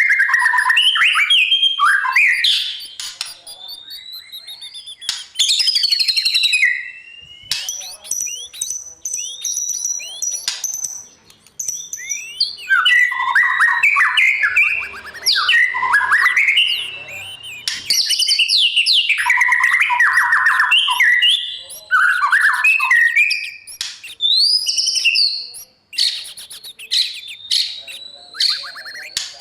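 White-rumped shama singing a loud, varied song of clear whistles, fast trills and sweeping notes, delivered in phrases with short pauses between them.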